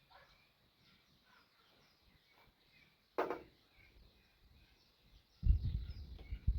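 Birds chirping faintly outdoors, with one short sharp sound about three seconds in. From about five and a half seconds, loud low rumbling thumps cover the rest.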